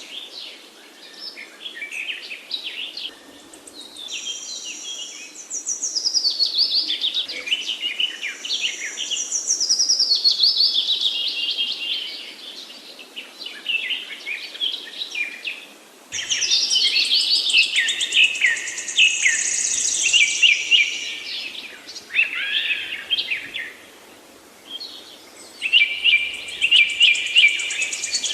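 Several songbirds singing at once, a dense chorus of rapid whistles, trills and falling pitch sweeps, overlapping in loud spells that ease off briefly now and then.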